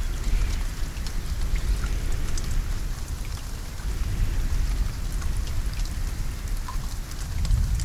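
Steady rain falling, with many separate drops ticking on a surface, over a continuous low rumble.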